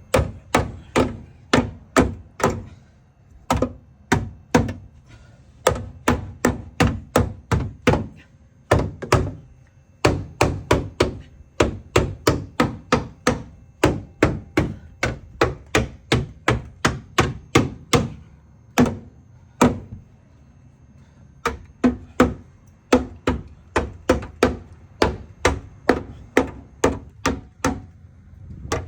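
Repeated hammer blows on car body metal, about three a second in runs with short pauses, knocking the metal back so the wheel clears.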